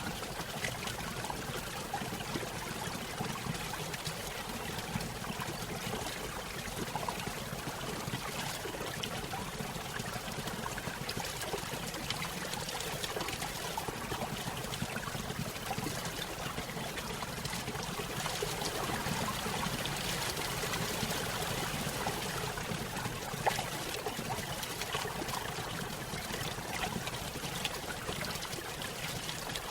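A small stream spilling over a little waterfall: steady trickling and splashing water with scattered small splashes.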